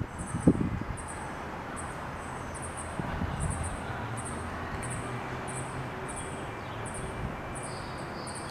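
Outdoor background with a steady low hum and hiss, and a very high, thin chirp repeating about twice a second.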